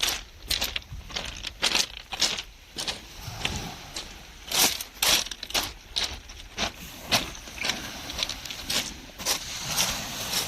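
Footsteps of a person walking at a steady pace, about two steps a second, with a short pause about three seconds in.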